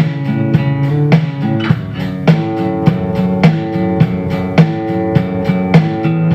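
Acoustic guitar music: plucked notes ringing on, with a steady pulse of just under two notes a second.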